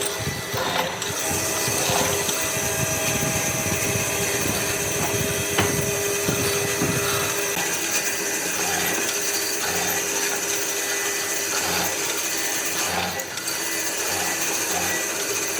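A power tool working wood, a steady machine noise whose tone changes about halfway through.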